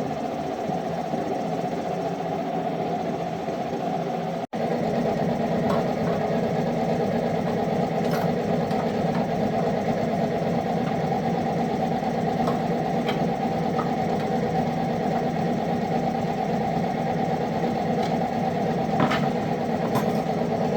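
An engine running steadily at an even speed. It cuts out for an instant about four and a half seconds in, then carries on a little louder, with a few faint clicks over it.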